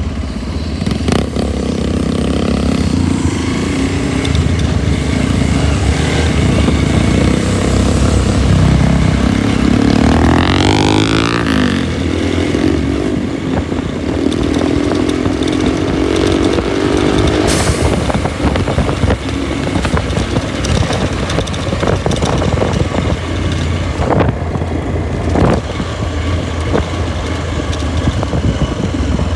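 Motorcycle engine running on the road under steady wind rush on the microphone. The engine pitch sweeps up and down about a third of the way in, then climbs as the bike picks up speed, with a sharp click a little past the middle.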